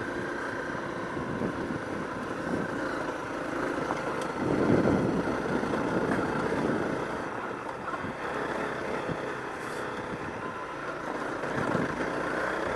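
Trail motorcycle engine running steadily, louder for a couple of seconds around the middle.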